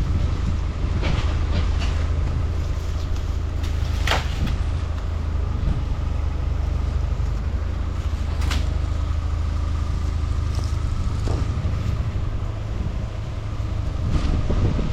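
Strong wind buffeting the microphone: a steady low rumble, broken by a few sharp clicks or knocks, the loudest about four seconds in and another about eight and a half seconds in.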